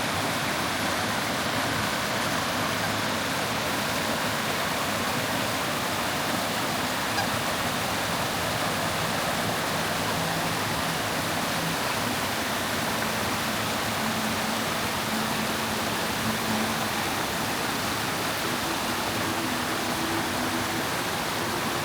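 Steady rush of flowing water, even and unbroken, with a few faint low drawn-out tones in the second half.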